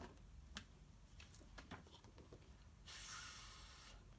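A woman saying the phonics sound "ph" as a held "fff" hiss for about a second, near the end, after a few faint clicks.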